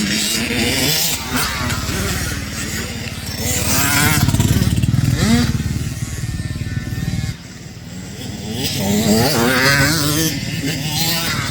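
Dirt bike engine revving, its pitch climbing and falling repeatedly. The sound drops away suddenly about seven seconds in, then climbs again.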